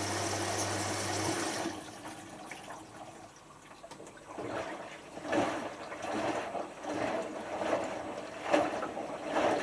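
Hotpoint HF8B593 washing machine in its rinse: water rushes through with a steady electrical hum that cuts off about a second and a half in. The drum then tumbles and the laundry sloshes in the water, a swish roughly every second, louder near the end.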